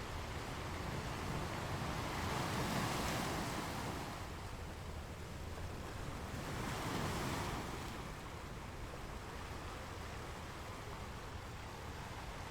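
Ocean waves: a steady rush of surf with two waves swelling and washing in, about two seconds in and again about seven seconds in.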